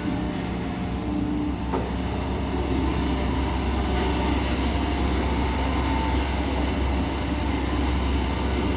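Kobelco SK140 excavator's diesel engine running steadily, with a faint higher tone that comes and goes over the drone.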